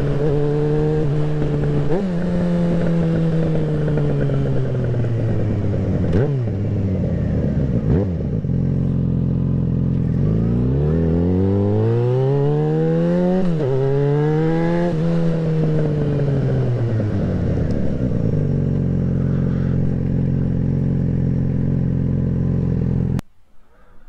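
Yamaha XJ6N's inline-four engine heard on the move. The revs fall away several times, then climb hard through a gear change about halfway through and drop again. The engine then settles to a steady note, and the sound cuts off abruptly just before the end.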